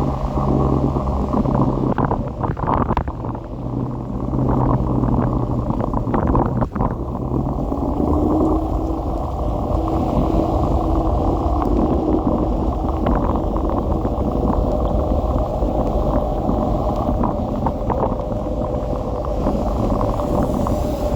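Riding noise from a Kugoo electric scooter: wind rumbling on the microphone over a steady motor hum, which shifts higher in pitch about a third of the way through.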